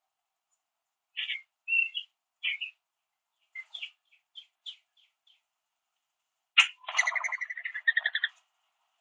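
Small backyard birds giving a scatter of short, high chirps, then a sharp click and a loud, buzzy, rapidly pulsed trill lasting about a second and a half near the end.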